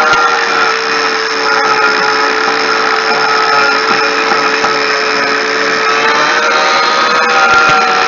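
Electric angle grinder fitted with a sanding disc, running continuously as it grinds away window seal, with a steady whine whose pitch wavers slightly as the load changes.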